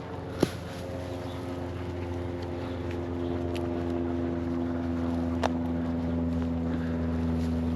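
A motor's steady hum that slowly grows louder, with a couple of sharp clicks or knocks.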